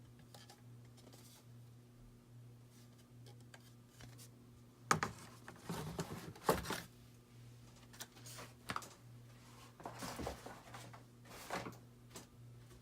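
Packaging being handled and unpacked: rustling with a few sharp knocks, in two bouts about five and ten seconds in, over a steady low hum.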